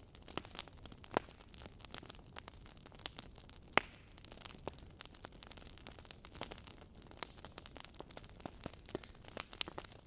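Wood fire burning in a fireplace: logs crackling with irregular small pops and snaps over a low, steady rumble of flame, one louder pop about four seconds in.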